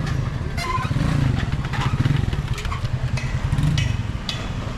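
Busy city street traffic: vehicle engines running and passing close by, with a steady low hum that swells and fades, and scattered short clicks.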